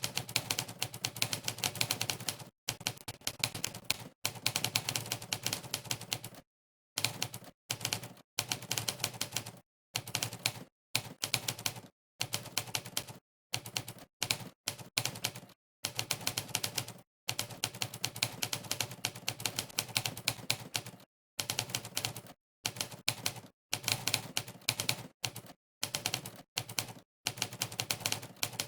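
Typing-test typewriter sound effect: a sampled typewriter key clack plays for each keystroke, fast and irregular, in runs of a second or two. Between the runs come short gaps of dead silence.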